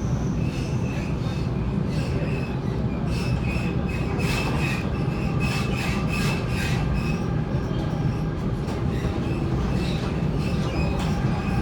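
Waratah A set double-deck electric train running on the rails: a steady low rumble with high-pitched wheel squeal that comes and goes, strongest from about three to seven seconds in.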